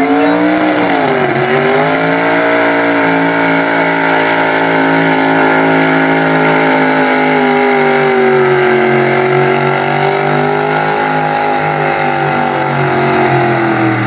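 Super stock 4x4 pulling truck's engine running at high revs under load. The pitch dips briefly about a second in, then holds high with slow small swings, and falls away near the end.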